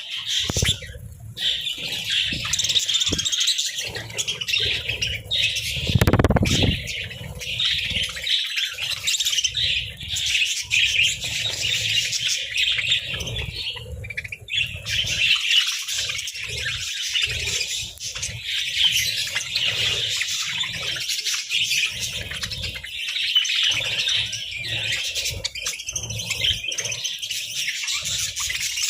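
A flock of budgerigars chirping and chattering continuously in high, busy warbles. About six seconds in, a brief low rumble is the loudest moment.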